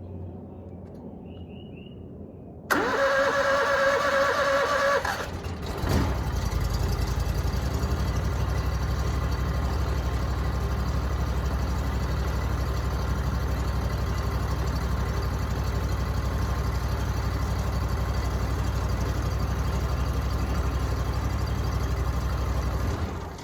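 Gasoline pressure-washer engine starting about three seconds in and running high for a couple of seconds. It then drops with a falling tone to a steady low running, which stops near the end.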